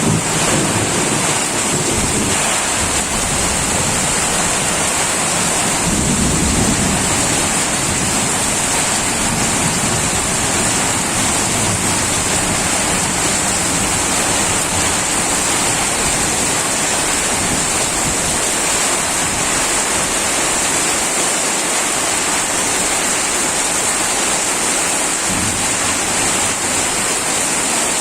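Heavy rain pouring down steadily in a storm, a loud continuous hiss, with low gusty rumbles near the start and about six seconds in.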